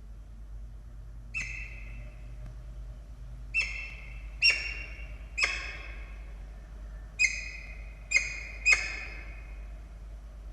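Peregrine falcon calling at the nest: seven short calls, each starting sharply and trailing off. They come at uneven gaps, the first alone and the rest in two close groups of three.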